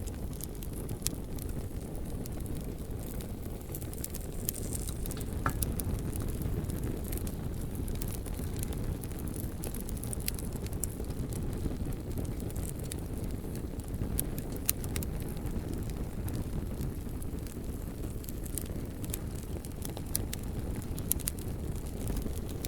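A bonfire burning: a steady low rumble of flames with frequent sharp crackles and pops from the burning logs, a few louder pops here and there.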